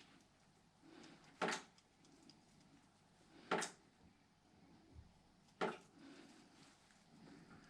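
Three short, sharp taps at an even pace about two seconds apart, with faint rustling between them.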